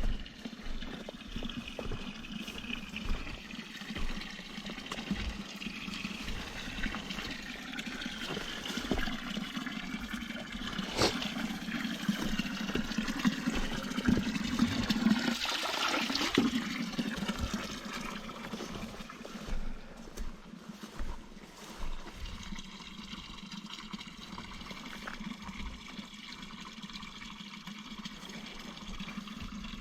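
Water running from a village drinking fountain's spout and splashing into its trough, steady, swelling a little midway, with occasional wind buffeting on the microphone.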